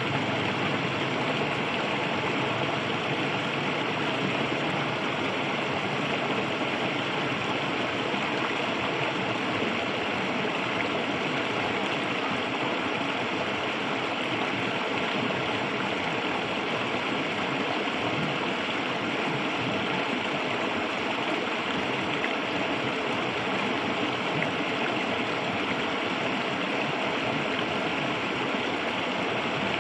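Clear river water flowing, a steady even rush with no breaks or changes.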